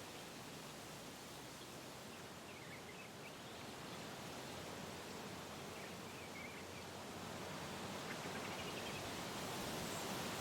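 Wind blowing through trees, a steady rustling rush of leaves and branches that swells into a stronger gust over the last few seconds.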